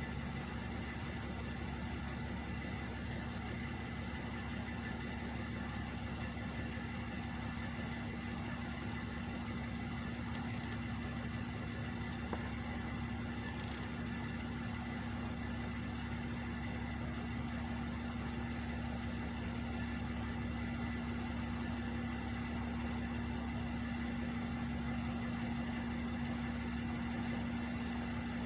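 Truck engines idling, a steady unchanging drone with a constant low hum.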